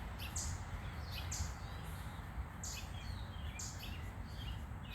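A small bird chirping outdoors: short high chirps repeated about once a second, five in all, over a steady low rumble of background noise.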